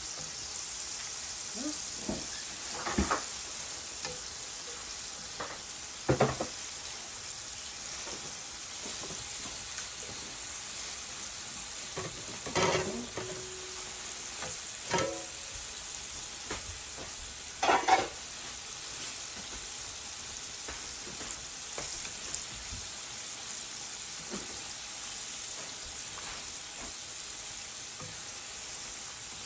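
Battered shrimp frying in hot oil in a pan, a steady sizzle, while bamboo chopsticks stir them. Five or six short sharp knocks of the chopsticks against the pan, the loudest about six seconds in and near eighteen seconds.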